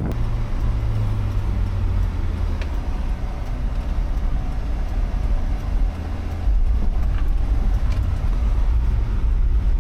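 A vehicle running, a steady low engine and road rumble with a low hum that grows louder about six and a half seconds in.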